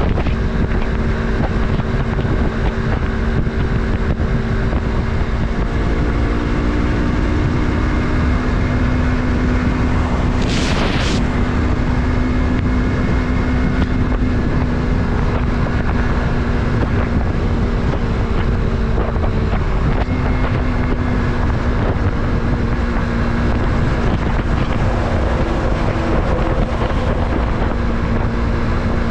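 Yamaha MT-03's 321 cc parallel-twin engine running at a steady cruise, with wind noise on the microphone. The engine note shifts slightly about six seconds in, and a brief hiss comes about ten seconds in.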